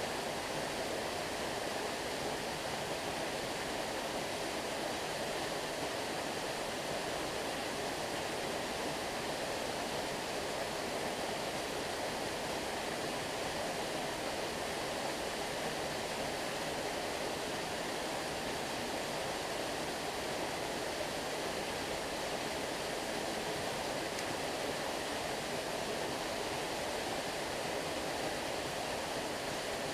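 Stream water flowing and rushing steadily, an even, unbroken hiss of running water.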